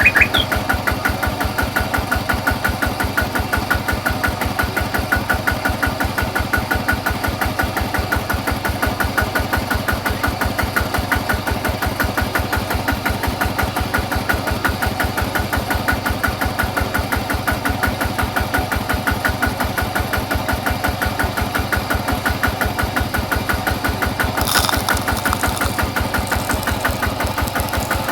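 Small engine running steadily at idle with an even, rapid train of firing pulses. A short hissing burst comes about three quarters of the way through.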